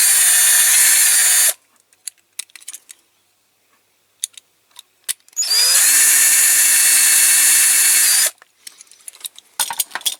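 Electric drill drilling out the rivet post of a die-cast model's base: it runs steadily and stops about a second and a half in, then come a few light clicks of the model being handled. A second drilling run of nearly three seconds starts about five and a half seconds in and stops near the end, followed by more small clicks.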